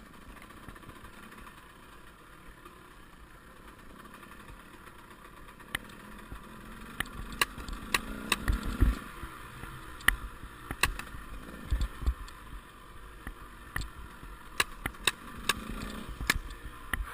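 Enduro motorcycle engines running at a distance, swelling as they rev, most strongly about halfway through and again near the end. Many sharp clicks and knocks sound over them.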